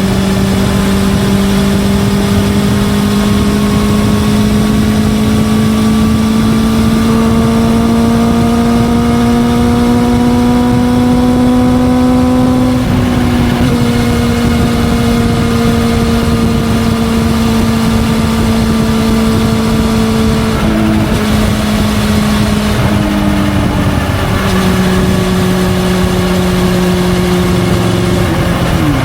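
Honda CB400SF Hyper VTEC's inline-four engine through a Yoshimura titanium full exhaust system, pulling on the move. The engine note climbs steadily for about twelve seconds and drops at a gear change. It holds level, steps lower a few times about two-thirds of the way in, and shifts again near the end.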